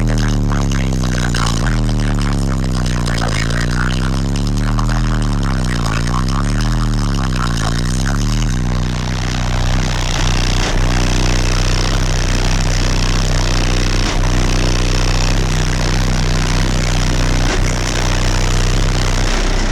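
Two AQ HDC4 12-inch subwoofers on a Powerbass 4000-watt amplifier playing a bass track loud in a car. For about the first eight seconds the bass notes sweep up and down repeatedly, then they hold steady low notes. The enclosure is not yet sealed off.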